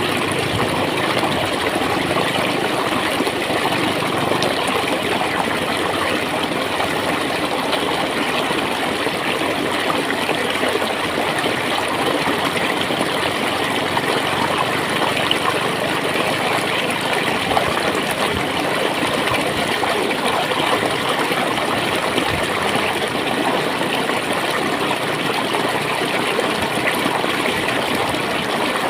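Clear water flowing and gurgling steadily over rocks in a stream.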